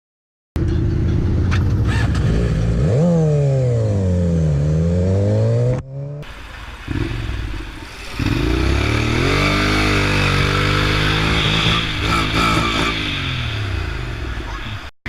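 Motorcycle engine running and changing speed: its pitch drops and climbs again in a V about four seconds in. The sound breaks off abruptly near six seconds and another motorcycle engine starts, its pitch rising and then falling, with a rushing hiss over it.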